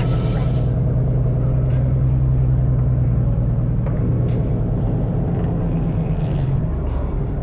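Car engine running with a steady low drone.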